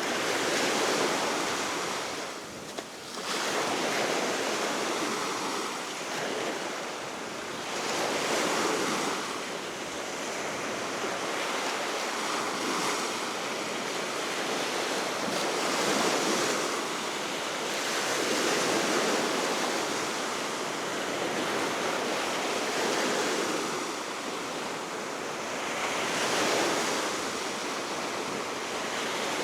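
Baltic Sea waves washing onto the shore, swelling and falling back every three to four seconds, with steady wind throughout.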